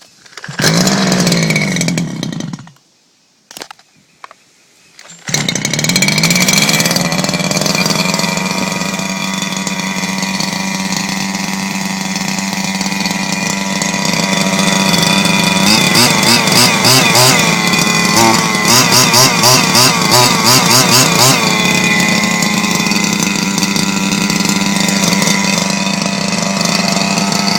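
Reely Carbon Fighter RC car's 30 cc petrol engine starting after a long winter layup: it fires briefly and dies, then catches about five seconds in and runs steadily. Between about sixteen and twenty-one seconds the throttle is blipped repeatedly, the pitch wavering up and down, before it settles back to a steady run.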